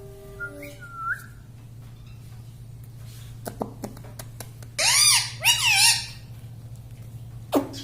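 Pet rose-ringed parakeet calling: a few faint short notes, then a loud run of about three arching, rasping squawks about five seconds in and a short downward call near the end, over a steady low hum.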